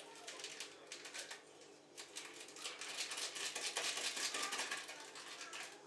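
A quick run of small clicks and rustling, thickest in the middle and thinning out near the end.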